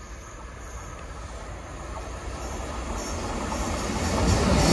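A train approaching at speed along the line, its rumble and rail noise growing steadily louder as it draws near.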